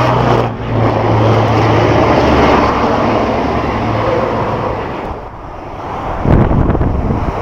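Truck engine running with road noise and a steady low hum. About six seconds in, loud low buffeting comes in, typical of wind on the microphone.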